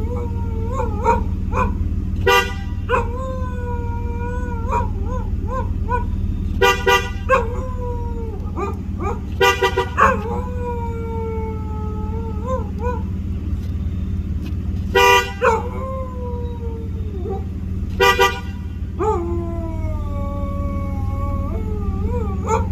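A shepsky (German shepherd–husky mix) howling in long, wavering howls, answering a car horn that toots in short blasts every few seconds, sometimes two or three in quick succession. A steady low hum runs underneath.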